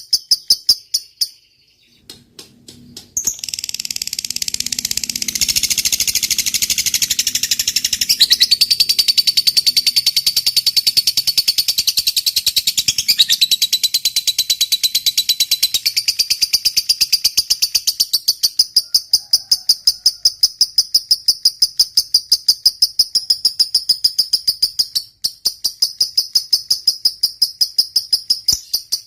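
Lovebird ngekek: a long, rapid, high-pitched chattering trill of repeated notes, about four or five a second. It starts after a few separate chirps and a short pause, then runs on unbroken.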